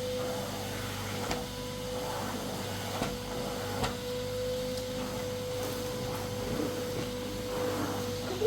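A steady, even machine hum at one pitch, with a few faint clicks.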